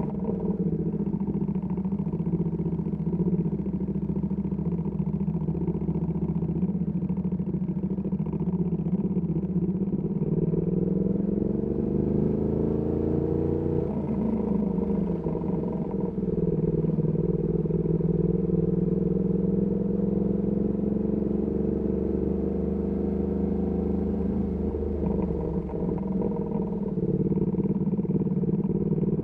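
Ducati Panigale V2S V-twin engine through a Termignoni exhaust, running at low to moderate revs in city riding. Its pitch rises and falls with the throttle, dipping and climbing again around halfway and once more near the end.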